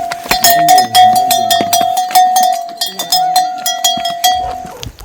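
A small metal bell clanking over and over in quick, uneven strokes, several a second, each ringing at the same pitch; it fades out near the end.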